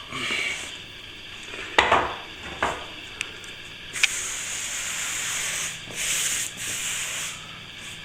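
Hand sanding over a plaster repair, with two sharp knocks about two seconds in, then about three seconds of steady rubbing.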